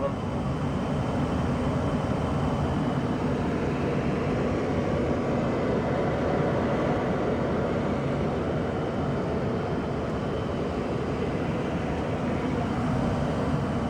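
A 1994 Tempstar SP80 gas furnace running steadily with its four burners lit. The draft inducer and blower fan add a constant rush of air.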